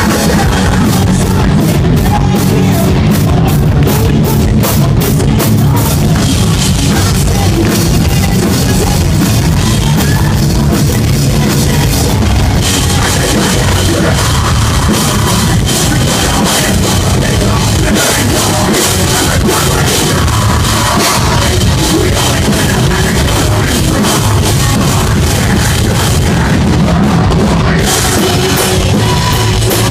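Post-hardcore band playing live and loud: heavy guitars, bass and a pounding drum kit, with the drums striking in an even beat in the first few seconds.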